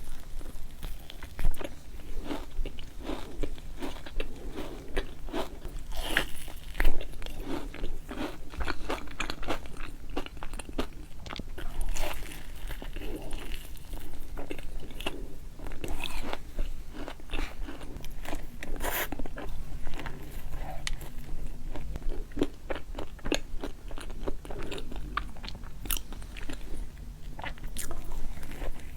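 Close-miked eating: irregular crunchy bites and chewing. A few bites are markedly louder than the rest.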